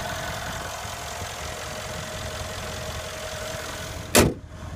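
The 5.5-litre AMG bi-turbo V8 of a 2015 Mercedes-Benz E63 AMG S 4MATIC idling steadily, with a steady whine over it. About four seconds in, a single loud slam, after which the engine sounds quieter and muffled, as when the hood is shut over it.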